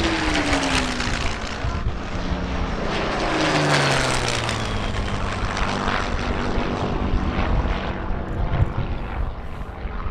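Piston-engined propeller aircraft flying past, its engine note dropping in pitch as it goes by near the start and again about three to four seconds in.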